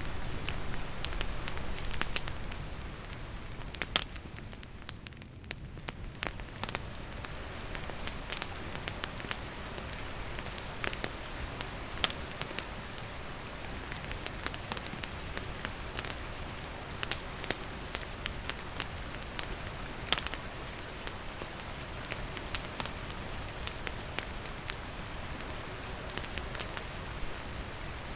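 Steady rain falling, mixed with a wood campfire crackling, with sharp pops every second or so. The rain thins briefly about five seconds in.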